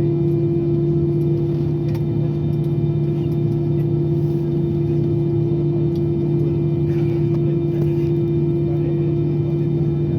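Airbus A320's CFM56 turbofan engines heard from inside the cabin at high thrust, a steady loud drone with two strong held hum tones and no change in pitch.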